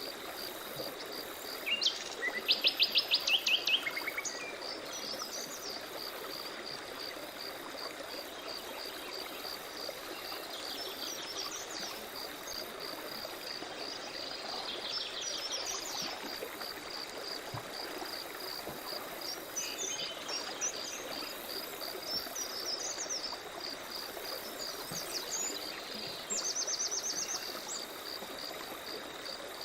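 Forest birds calling: a loud, rapid run of notes about two seconds in, scattered chirps and short whistles through the middle, and another fast run near the end. Under them an insect chirps steadily in an even pulse over a soft rushing background.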